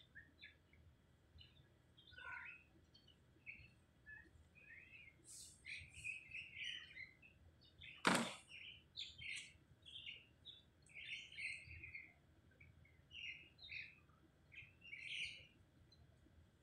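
Small birds chirping, many short high chirps scattered throughout, with one sharp knock about eight seconds in.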